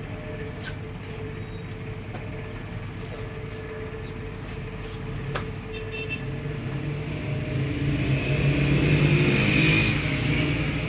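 Motor vehicle running with road noise, swelling louder toward the end, with a couple of sharp clicks early on and about halfway.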